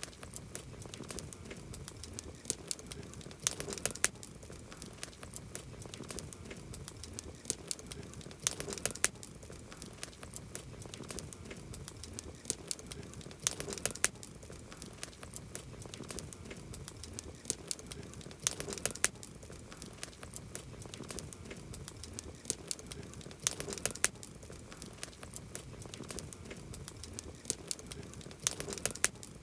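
Wood campfire crackling, a steady run of small ticks and snaps, with a cluster of louder pops about every five seconds.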